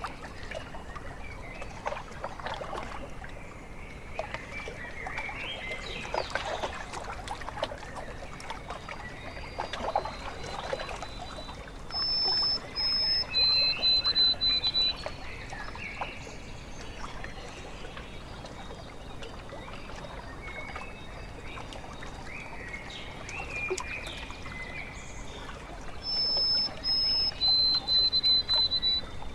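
Small waves lapping and trickling at a lake shore, with a songbird singing the same phrase of clear high whistled notes twice, about midway and again near the end.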